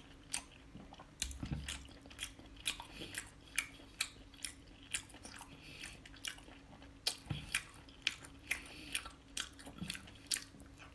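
Close-miked mouth sounds of someone chewing octopus: wet smacks and clicks of lips and tongue, irregular, a few a second.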